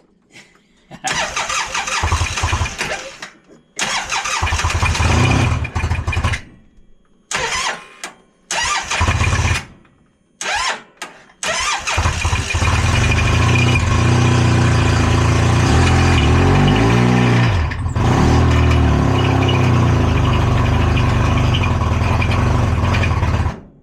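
Polaris RZR four-stroke engine cranked and catching in several short bursts, then running steadily for about ten seconds with the revs dipping and rising in the middle, before stopping suddenly as it locks up. The engine is failing after running without oil pressure, its rod bearings believed seized to the crank, and Lucas oil treatment has not saved it.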